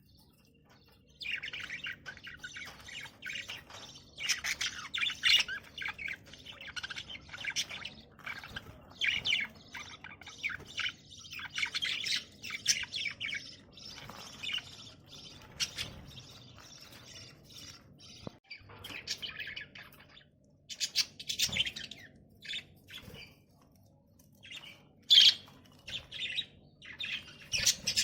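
Budgerigars chirping and chattering in quick, broken runs of high warbling calls, starting about a second in, with short pauses between runs.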